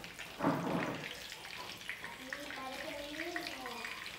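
Cabbage fritters frying in oil in a nonstick pan: a steady sizzle that swells briefly about half a second in, with small clicks of a fork and wooden spatula against the pan.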